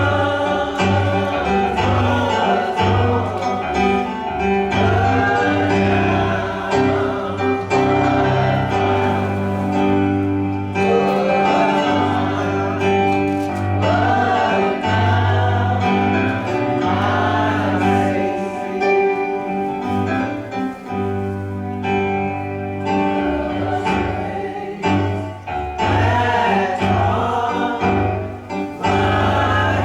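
Gospel song with several voices singing over instrumental accompaniment, with a bass line and light percussion.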